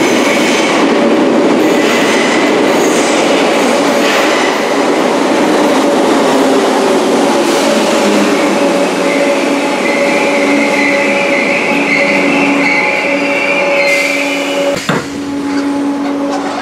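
A Merseyrail PEP-family electric multiple unit pulls into an underground platform: loud wheel and motor rumble echoing in the tunnel, with a steady low hum. A high squeal from the wheels and brakes comes in about halfway and stops shortly before a sudden change near the end.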